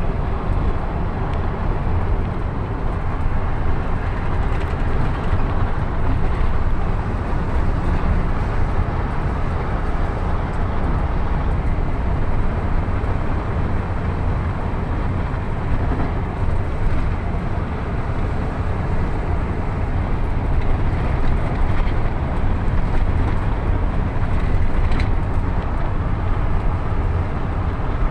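Steady low rumble of a vehicle travelling along a road, with road and wind noise.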